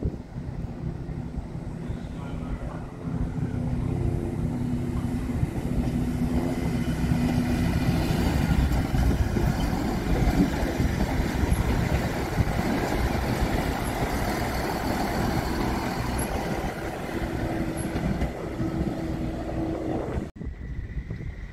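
A passenger multiple-unit train running past close by, the rumble of its wheels on the rails with a steady drone from its running gear. It builds to loudest about halfway through and eases off, then breaks off suddenly near the end.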